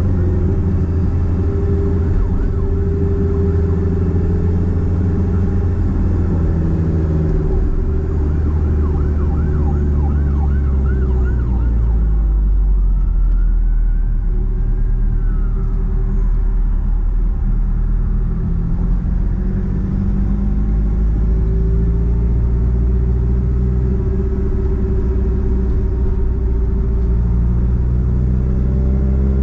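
Nissan Platina's four-cylinder engine through a straight-piped exhaust while driving. The engine note drops as the car slows about ten seconds in, holds low for a few seconds, then climbs again as it accelerates.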